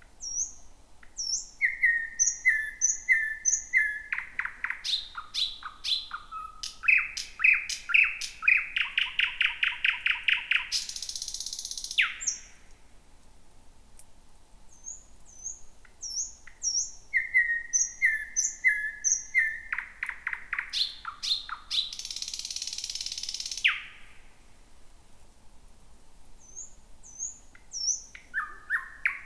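Thrush nightingale singing at night. Two full song phrases are separated by pauses of a few seconds, and a third begins near the end. Each phrase moves from high whistled notes and sharp clicks into a fast repeated trill and closes with a dry, rasping buzz.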